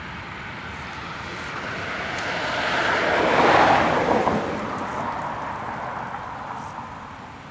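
Freight train of covered hopper wagons rolling past, a rushing rumble that swells to its loudest about halfway through and fades as the last wagons go by.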